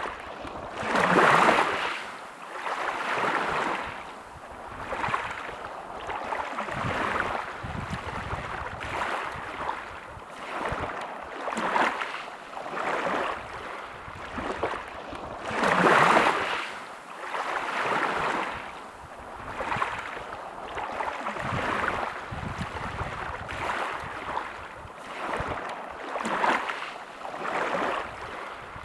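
Sea waves washing onto a beach, a continuous hiss of surf that swells and falls back every few seconds, with the biggest surges about a second in and again about halfway through.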